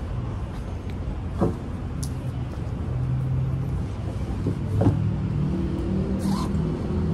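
A motor vehicle's engine running: a steady low rumble whose hum grows stronger about three seconds in. Two short knocks stand out over it, one a little over a second in and a louder one near five seconds.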